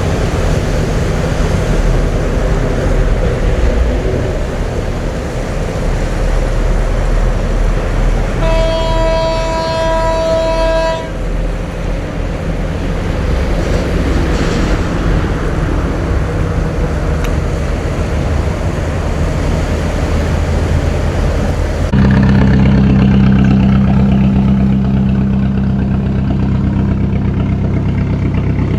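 Boat engine running steadily. A horn sounds once for about two and a half seconds around nine seconds in. After about 22 seconds, a lower, steadier engine hum takes over.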